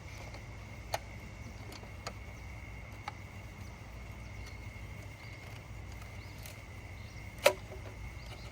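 A part being fitted into a cut opening in a car's interior trim: a few light clicks about a second apart, then one loud sharp click near the end, over a steady low hum and a faint high whine.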